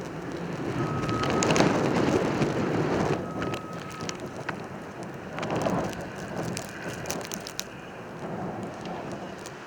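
Snowstorm wind gusting and buffeting the microphone with crackling, strongest in the first three seconds and then easing off.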